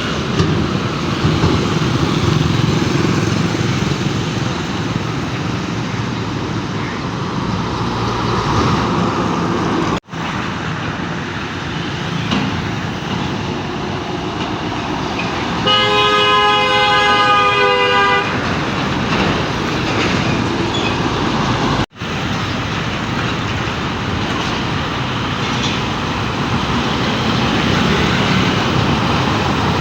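Heavy road traffic running steadily, with a vehicle horn sounding once for about two and a half seconds midway. The sound cuts out for an instant twice.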